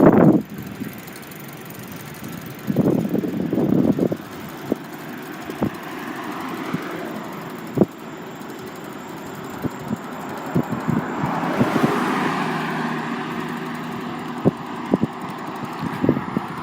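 Ride noise on a city street: clattering rattles and sharp knocks as the ride goes over bumps, against a steady rushing background. A broader rush of passing traffic swells up from about ten seconds in.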